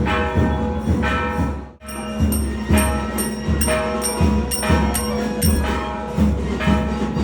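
Temple procession music: percussion struck in a steady beat with ringing, bell-like metallic strikes over steady held tones, briefly dropping out about two seconds in.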